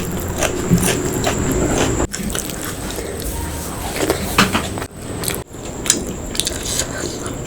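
Close-miked eating sounds: a person biting and chewing food, with irregular short mouth clicks.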